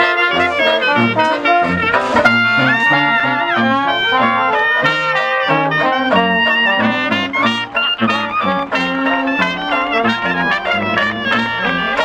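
Brass band music, several horns playing a tune together; it stops abruptly at the end.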